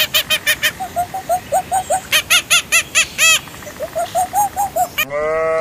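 A bird calling in a rapid series of short chirps, about five or six a second, with a brief break about a second in. Near the end a long bleat begins.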